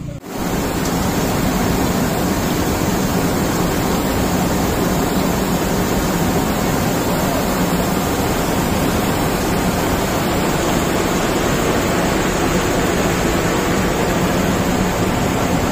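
Heavy rain falling, a steady loud rush of noise.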